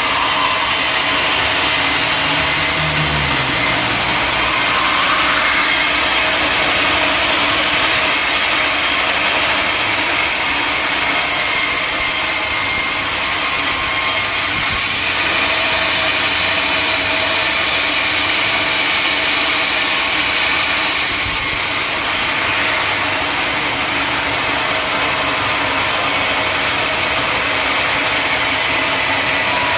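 Sawmill saw running steadily at full volume, cutting through acacia wood.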